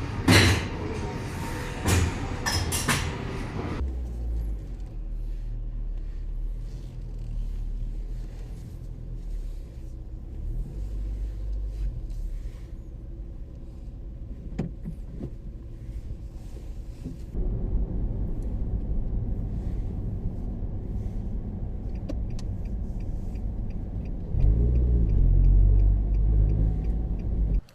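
Car on the move: a steady low rumble of engine and road noise, louder from about two-thirds of the way through. There are a few sharp knocks in the first few seconds and a run of evenly spaced ticks, about two a second, near the end.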